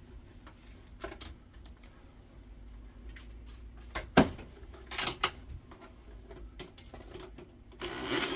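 Metal clinks and knocks from handling a stripped induction hob's metal frame and screws, with the sharpest knock about four seconds in. Near the end comes a rougher rasping stretch of about a second.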